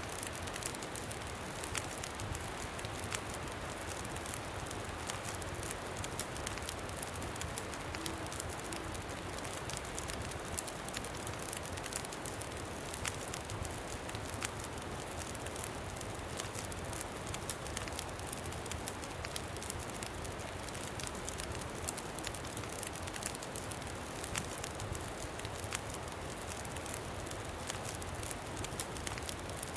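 Campfire crackling, with many small sharp pops scattered irregularly over a steady rush of wind.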